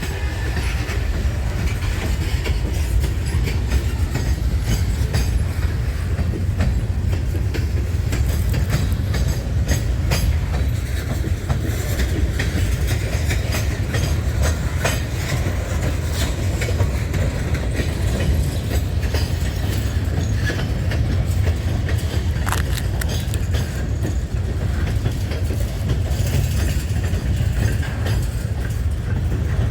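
Freight train cars rolling slowly past while being shoved back into a yard: a steady low rumble with scattered clicks and knocks from the wheels and couplers.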